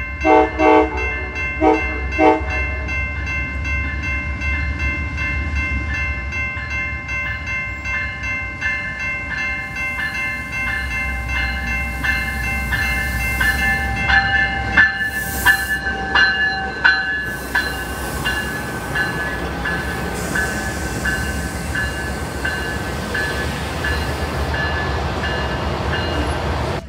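Amtrak passenger train led by a GE Genesis diesel locomotive arriving along a station platform. Three short horn blasts sound in the first couple of seconds and a bell rings steadily with an even beat. About halfway in, the locomotive passes close by with a run of sharp clicks from the wheels, and its diesel engine runs on until the sound cuts off.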